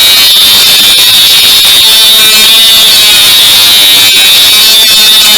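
Parkside PWSA 12-Li A1 12 V cordless 76 mm mini angle grinder running continuously with a loud, steady, high-pitched whine.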